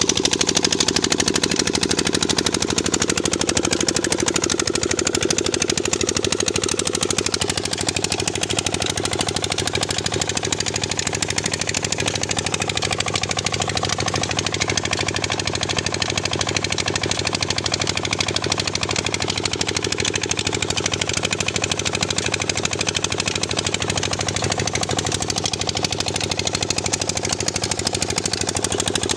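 Diesel engine of a tubewell running steadily, with a fast, even knocking beat.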